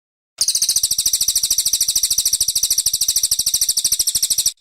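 Brown cililin songbird singing one rapid, steady high-pitched trill of more than ten notes a second, which starts and stops abruptly.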